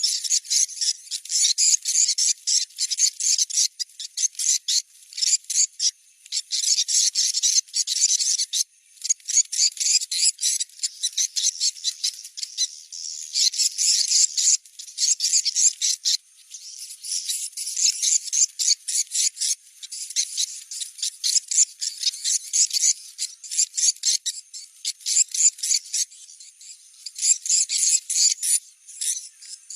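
Recorded edible-nest swiftlet calls, a location-check sound used to test a site for a swiftlet house: rapid high-pitched chirping twitters in bursts of a few seconds, separated by short pauses.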